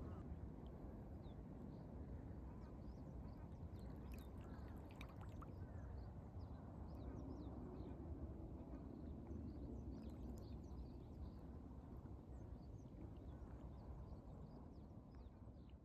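Outdoor ambience with a steady low rumble, like wind or water, and many faint short bird chirps scattered through it.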